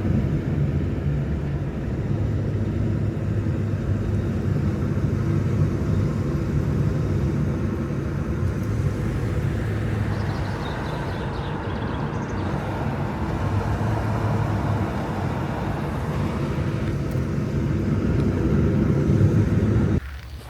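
A car driving: steady engine hum and road noise, starting and stopping abruptly.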